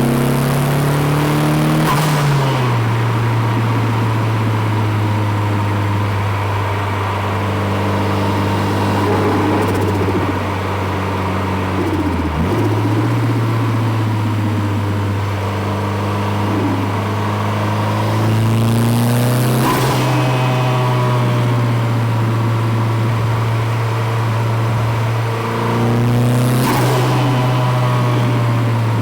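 Nissan 200SX's turbocharged SR20DET four-cylinder running under load, its note holding fairly steady with a few shifts in pitch. Three short bursts of hiss come about two seconds in, about two-thirds of the way through and near the end: the turbo releasing boost as the throttle lifts.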